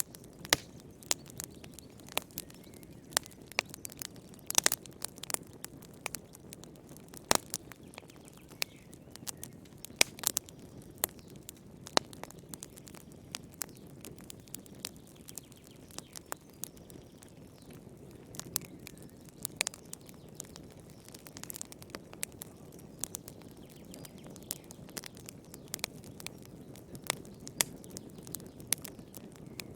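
Wood fire crackling in a fireplace: irregular sharp snaps and pops, a few much louder than the rest, over a steady low rumble of the flames.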